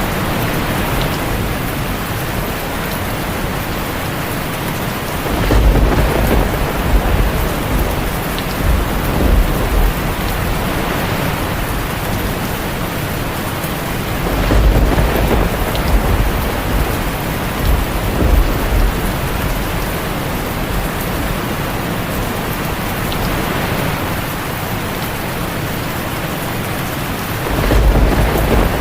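Heavy rain falling steadily on a tin roof, with low rolls of thunder rumbling up three times: about five seconds in, near the middle, and near the end.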